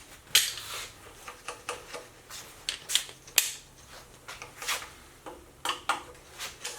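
Metal sockets and hand tools clinking and clattering in scattered, irregular knocks as they are sorted through and handled.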